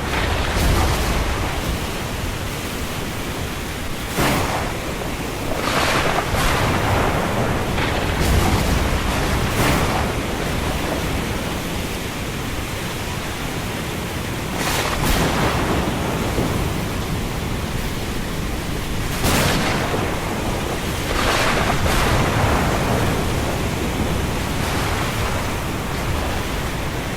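Thunderstorm ambience: a steady rush of wind and rain over a low rumble, broken every few seconds by brief, sharper, louder surges.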